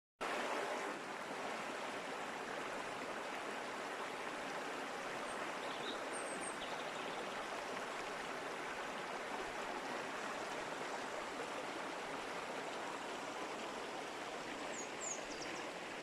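A mountain river, Oued Taza, rushing steadily over its bed. Faint short high chirps come twice, about six seconds in and near the end.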